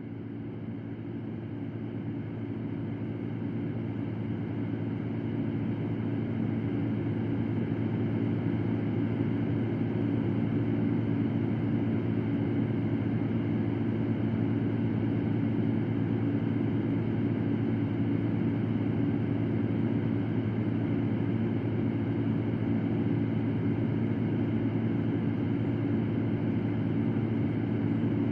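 Electric fan running with a steady whir and a low hum. It swells up over the first several seconds, then holds even.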